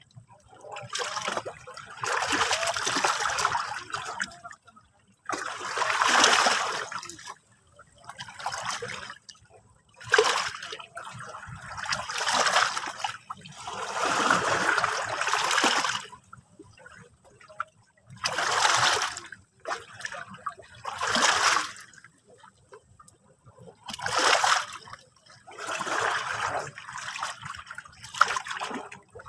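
Sea waves lapping and splashing in separate washes of one to three seconds each, about ten of them, with short quiet gaps between.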